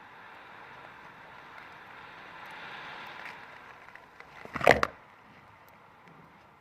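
A rushing noise that swells and dies away over about four seconds, like a gust of wind, then a loud, short clatter of several knocks a little before the five-second mark, something hard banging.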